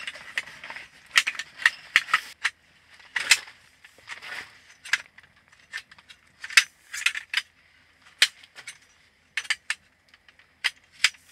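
Hard camping gear being handled and fitted together: irregular sharp clicks and clacks, about one or two a second, with soft rustling between them.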